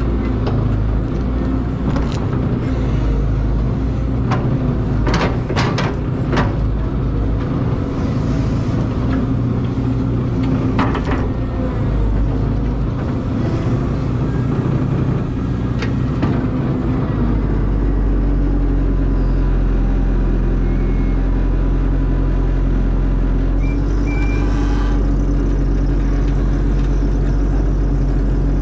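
Caterpillar excavator's diesel engine running under work, with several sharp knocks, a cluster of them about five to six seconds in. A little past halfway the engine settles into a steady, even drone.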